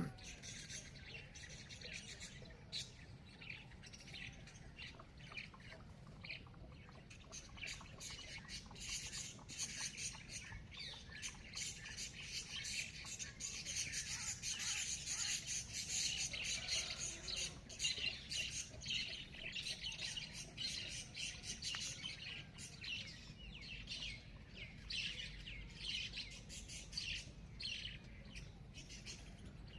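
Many small birds chirping and chattering in a dense dawn chorus of rapid, high calls, busiest about halfway through, over a faint low steady rumble.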